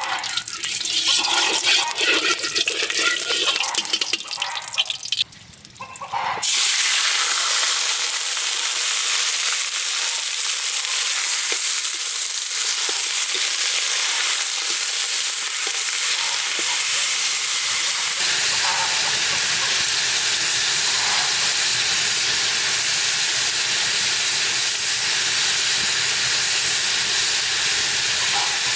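Irregular splashing of water for the first few seconds, then, about six seconds in, a steady loud sizzle of food frying in hot oil that goes on without a break.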